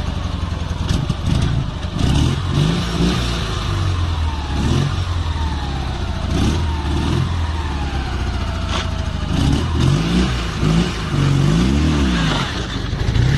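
Car engine running with road noise, its pitch rising and falling again and again as it speeds up and eases off; a sharp click about nine seconds in.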